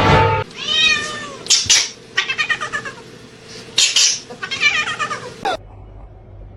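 A cat meowing and yowling: several drawn-out, rising-and-falling calls with shorter ones between. It stops suddenly about five and a half seconds in.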